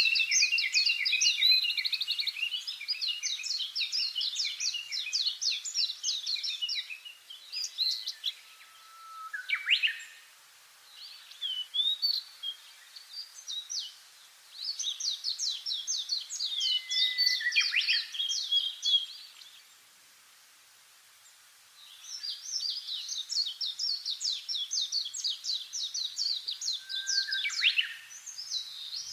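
Songbirds singing: long runs of rapid, high chirping notes that last several seconds each, broken by short pauses and a few lower single whistled notes.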